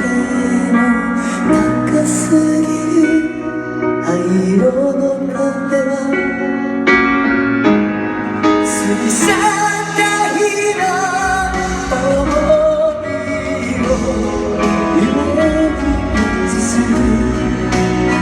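Live concert music: a singer's voice over guitar accompaniment, with long held notes that waver in pitch.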